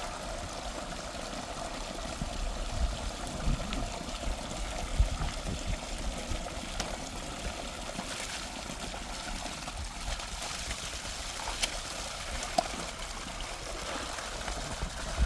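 Water running in a steady trickling stream, with a few short clicks and knocks scattered through.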